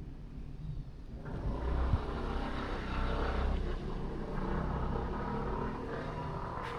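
A vehicle going by close, its sound rising about a second in and continuing steadily after that.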